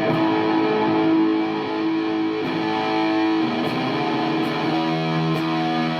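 Electric guitar played through a Sola Sound Mark IV Tone Bender germanium fuzz pedal: fuzzed chords ringing out with long sustain, changing a few times.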